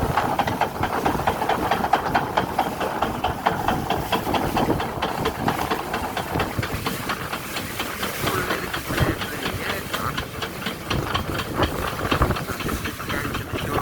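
Chain ferry's hauling chain rattling and clanking in a rapid, continuous run as it is drawn through the ferry's machinery, over steady machinery noise.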